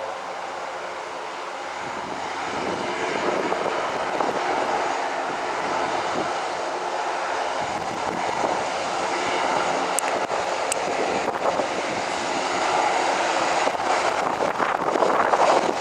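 Twin-engine business aircraft approaching to land, its engine noise growing steadily louder as it nears.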